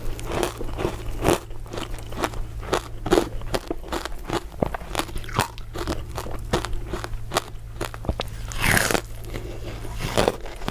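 A person biting and chewing crisp crystal ice dessert pieces, a rapid, irregular run of crunches throughout, with one longer, louder crunch near the end.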